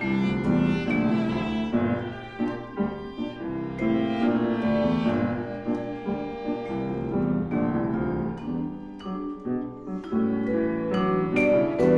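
Viola playing with piano accompaniment: a chamber-music passage with the bowed viola line over struck piano chords.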